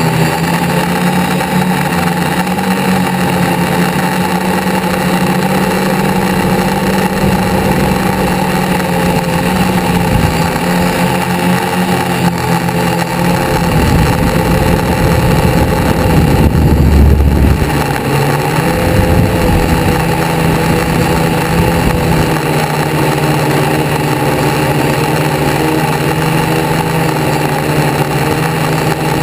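Car engines running steadily, with one engine growing louder and deeper for a few seconds around the middle, as a car passes close.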